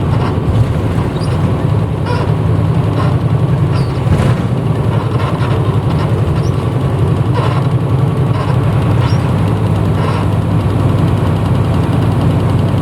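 Diesel engine of a 1994 Hino Blue Ribbon route bus, running steadily at low revs and heard from inside the cabin. Short clicks and rattles come through at irregular intervals.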